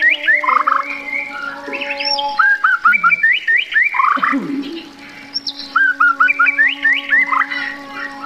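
Bird-like chirping in repeated phrases of quick rising notes, a phrase about every three seconds, over a steady droning tone.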